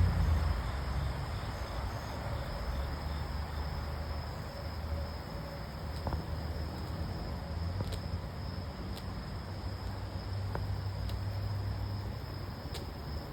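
Steady high-pitched insect chorus over a low, steady rumble of distant traffic. A passing vehicle fades out in the first second or so, and a few faint ticks come later.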